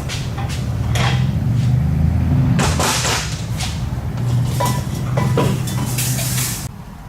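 Metal tools and parts clanking and scraping in repeated sharp knocks over a steady low hum. The hum stops abruptly near the end.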